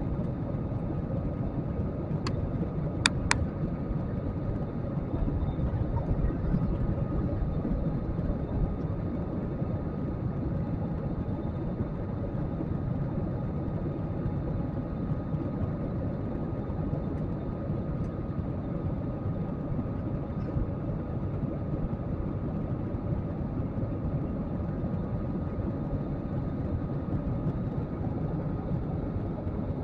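Steady cabin noise of a jet airliner in flight: a constant low rush of engines and airflow with a faint steady whine. Three short clicks sound about two to three seconds in.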